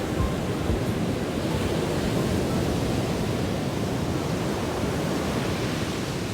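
Sea waves washing onto the shore, a steady rushing noise heaviest in the low range.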